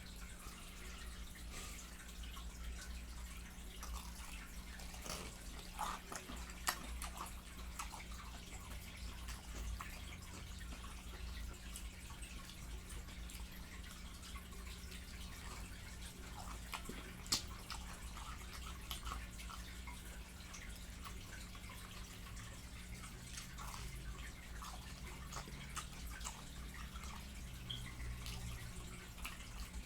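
Close-up mouth sounds of someone eating fried chicken: wet chewing and lip smacking, heard as many small irregular clicks, a few sharper than the rest, over a steady low electrical hum.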